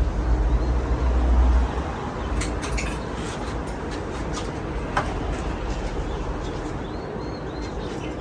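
Hampton Bay Cameron II Plus ceiling fan running steadily, its motor and blades making an even whooshing hum. A heavier low rumble eases off after about a second and a half, with a few faint ticks and small chirps over the top.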